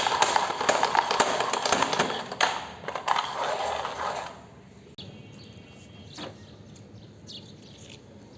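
A dense rolling, rattling clatter for about four seconds, then it stops and only a few faint clicks remain.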